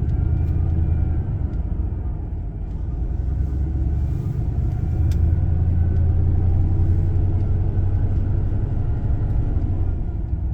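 Low engine and road rumble heard inside a van's cabin while driving slowly, easing a little and then building again about halfway through.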